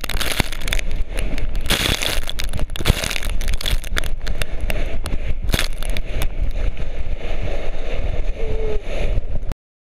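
A board sliding over loose volcanic gravel: continuous gritty scraping and crunching, with wind rumbling on the microphone. It cuts off suddenly near the end.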